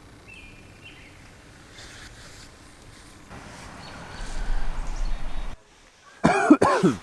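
Quiet outdoor ambience with faint bird chirps, then a few seconds of rushing noise that cuts off suddenly. Near the end, birds honk several times loudly.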